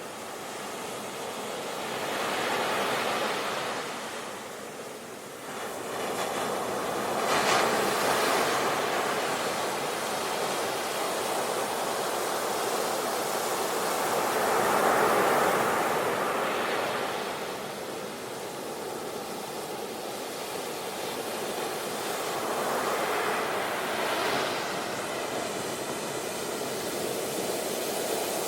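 Sea waves breaking on the shore, the surf hiss swelling and fading in repeated surges about every six to eight seconds.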